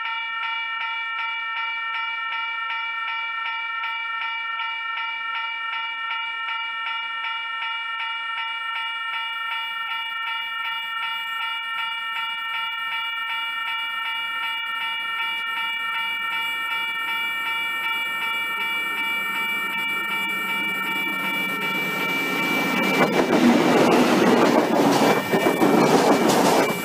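NSW TrainLink XPT diesel passenger train approaching and passing at speed. For most of the time a steady high ringing hum with a fast even pulse carries on, then the rumble of the power car and carriages swells loudly near the end as the train goes by.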